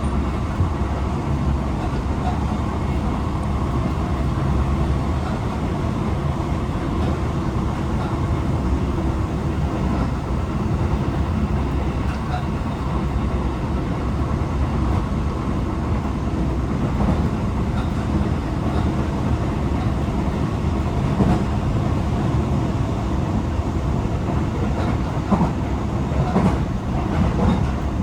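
Tokyo Metro 18000 series electric train running at steady speed, heard from inside the car: a continuous rumble of wheels on rail, with a few sharp clacks near the end.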